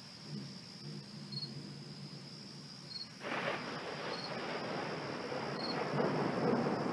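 Thunder: a faint low rumble, then a sudden clap about three seconds in that swells into a long rolling rumble, growing louder toward the end. Crickets chirp steadily underneath.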